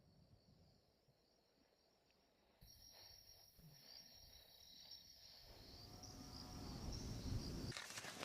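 Wind rushing through pine trees, swelling in the second half, like the sound of running water. Behind it a faint, steady high insect trill.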